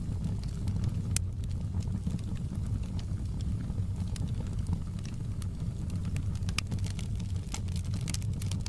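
Wood fire burning in a fireplace: a steady low roar of the flames with scattered sharp crackles and pops, which come thicker near the end.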